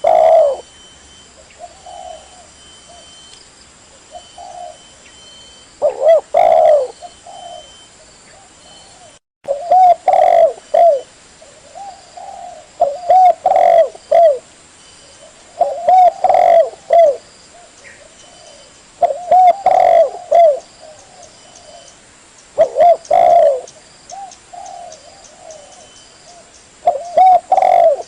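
Spotted dove (tekukur) cooing: loud phrases of a few coos every three to four seconds, with softer coos between them.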